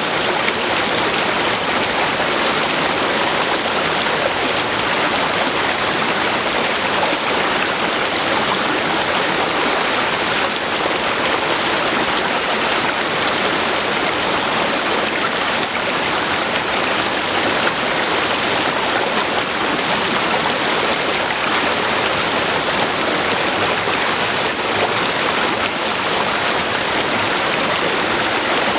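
River water flowing over rocks: a steady, even rush with no change in level.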